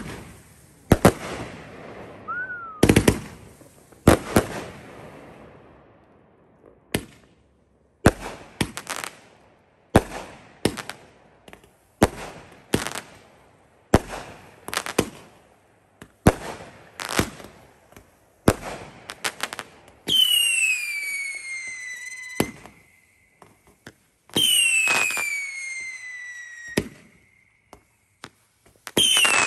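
Consumer fireworks firing: a steady run of sharp bangs, about one or two a second. Near the end come three long whistles, each falling in pitch over about two seconds, with a few crackles between them.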